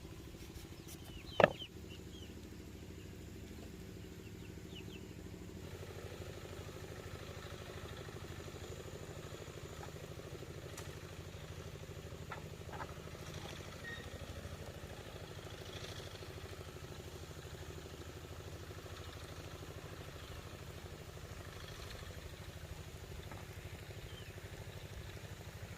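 A small engine running steadily with an even low hum, after a single sharp knock about a second and a half in.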